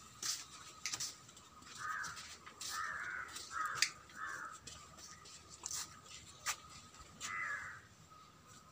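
Bird calls: about six short harsh calls spread through, over a faint steady high hum and a few light clicks.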